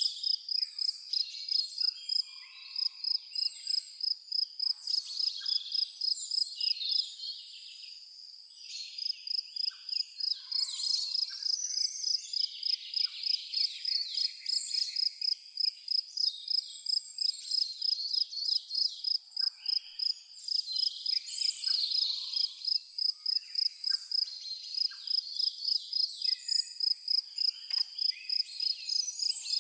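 A cricket chirping in a steady, even rhythm of a few high chirps a second, which breaks off briefly about eight seconds in, with scattered bird calls over it.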